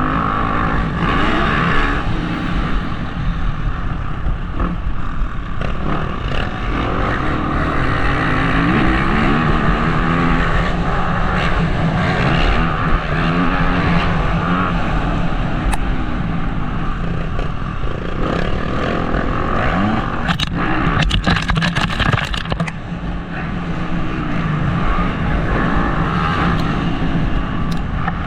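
Motocross bike engine heard from the rider's helmet, its revs rising and falling again and again through gear changes and throttle, over wind noise on the microphone. A run of sharp clicks and rattles comes about three quarters of the way through.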